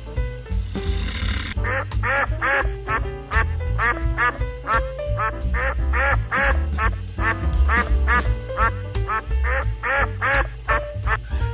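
Ducks calling in a quick run of short rising-and-falling quacks, about three a second, starting about two seconds in. Background music with a steady bass runs underneath.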